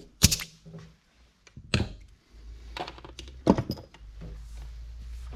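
A few sharp knocks and clatters of hard objects being handled and set down on a workbench, with a low steady hum coming in about two seconds in.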